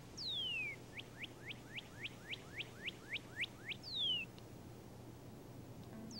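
A songbird whistling: one long falling whistle, then a quick run of about eleven short rising notes, about four a second, ending in another falling whistle.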